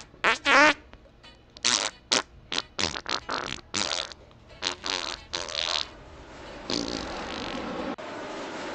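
A rapid string of short farts, some with a wavering, rippling pitch, for about six seconds; after that a steady rushing noise takes over.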